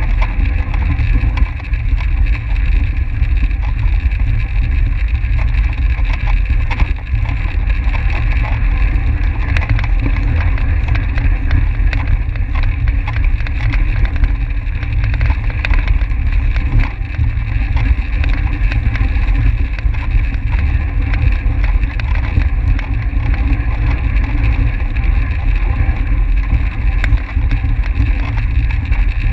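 Wind rushing steadily over the microphone of a camera carried by a track cyclist at speed, heavy in the low rumble.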